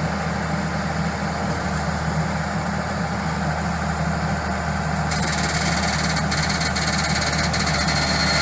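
Diesel engine of heavy construction machinery running steadily at a low, even speed. A high hiss joins about five seconds in.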